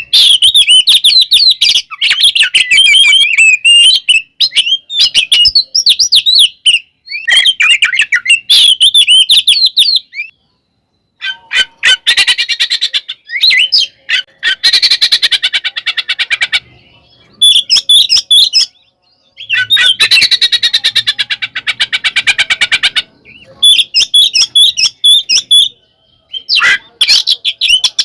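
Oriental magpie-robin (kacer) in loud, full song. It opens with about ten seconds of varied gliding whistled phrases, then gives two bursts of rapid harsh chattering a few seconds each, then more whistles near the end. This is the agitated fighting song that keepers play to provoke other kacer.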